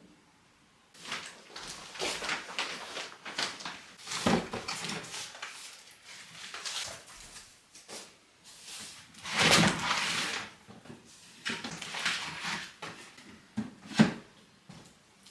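Household objects being handled at close range: a run of rustles, scrapes and knocks, with a longer, louder scrape around the middle and one sharp knock near the end.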